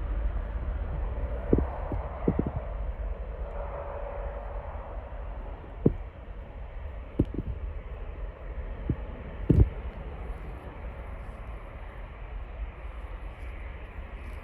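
Boeing 787-8 jet engines on a takeoff run, a steady low rumble, with several sharp thumps on the microphone.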